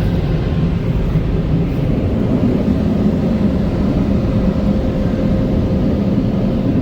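Four Premier car wash dryers blowing air over the car during the drying cycle: a loud, steady rush of air with a faint constant whine.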